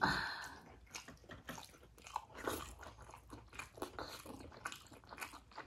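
Close-miked chewing of momo dumplings: an irregular string of small wet mouth clicks and smacks, several a second, after a louder bite at the very start.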